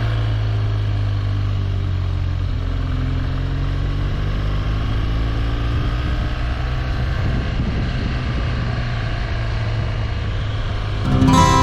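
BMW R1200GS boxer-twin engine running steadily on the road, its note drifting slightly up and down, with wind and road noise. Music comes in near the end.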